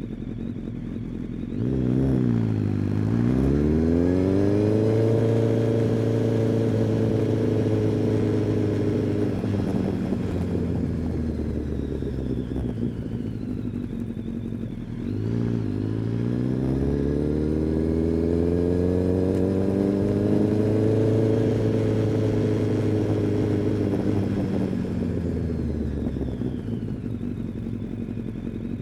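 Kawasaki ZX-10R inline-four sport bike engine and exhaust heard from the rider's seat, pulling away twice: the engine note climbs from about two seconds in, holds, then eases off, and climbs again about halfway through before slowly winding down near the end.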